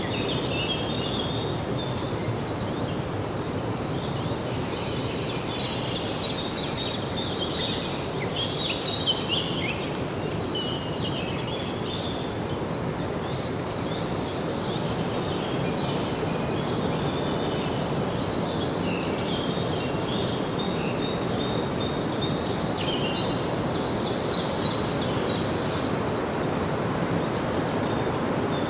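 Many small birds chirping over and over, in quick short calls, over a steady low rushing background noise.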